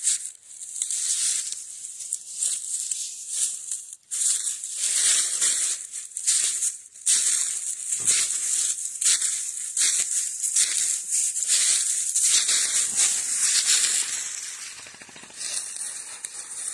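Footsteps crunching and rustling through dry fallen leaves on the forest floor, step after step at a walking pace.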